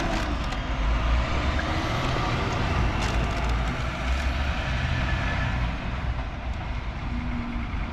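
Heavy trucks pulling away and driving past, their diesel engines giving a steady low rumble.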